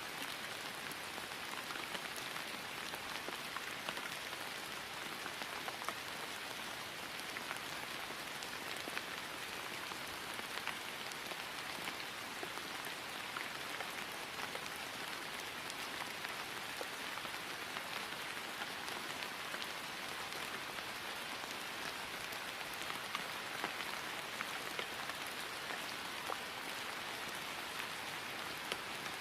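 Steady rain falling on grass: a constant hiss with many fine individual drop ticks scattered through it.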